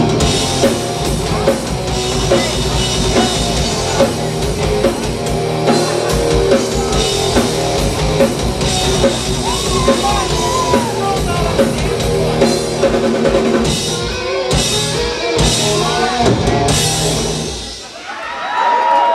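Live thrash-metal band playing: distorted electric guitars, bass and a pounding drum kit with kick drum, loud and dense. The music breaks off near the end.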